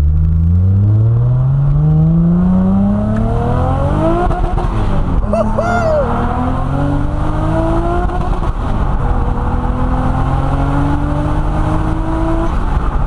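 Nissan Skyline R33 GTS-T's turbocharged RB25DET straight-six accelerating hard through the gears. The engine note climbs, drops at a gear change about four seconds in, climbs again until a second change about eight and a half seconds in, then pulls up once more before a third change near the end.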